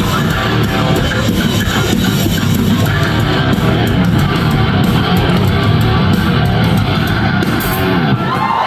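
Live rock band playing loud and heavy, with distorted electric guitars over bass and drums.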